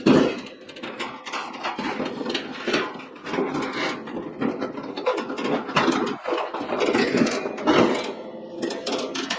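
Parts of a Heatmate HMN-110 kerosene heater being handled during a wick replacement: irregular rubbing, scraping and light knocks, with a faint steady hum underneath.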